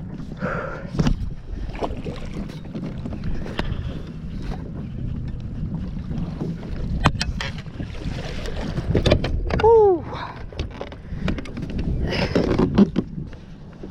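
Knocks and clicks of handling aboard a kayak over a steady low rumble of wind and water, with a brief rising-and-falling tone about ten seconds in.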